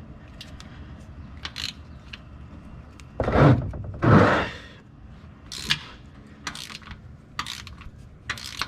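Hand socket ratchet clicking in several short spurts as a bolt is worked, with two louder strokes about three and four seconds in.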